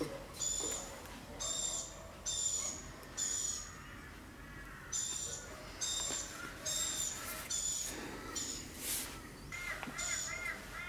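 A bird calling over and over, a short high call repeated roughly every second with brief pauses, joined near the end by a second, warbling call.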